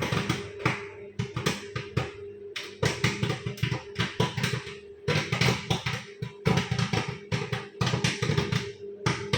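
Popcorn kernels popping inside a running microwave oven: irregular sharp pops, several a second, over the oven's steady hum.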